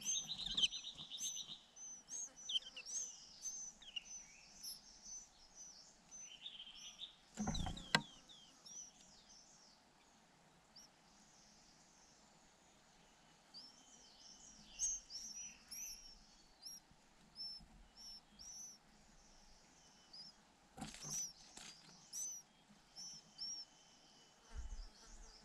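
White-eyes chirping at the nest: a run of short, high, up-hooked chirps, with buzzy begging bursts from the nestlings in the first two seconds and again about six seconds in. Two dull thumps, about seven and a half and twenty-one seconds in, stand out above the chirps.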